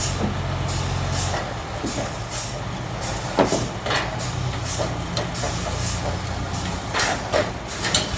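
Sawmill machinery running steadily with a low engine drone, broken by a few sharp clatters and knocks around the middle and near the end.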